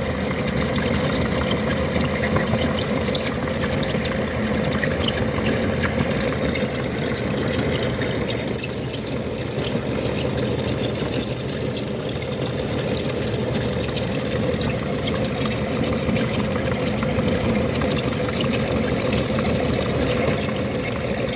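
Electric meat grinder running steadily with a constant motor hum and a crackling, grinding noise on top; it cuts off abruptly at the end.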